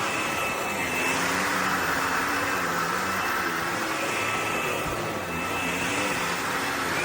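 Bissell PowerClean FurGuard cordless stick vacuum with its 280 W motor running steadily, with a high motor whine over the rush of air.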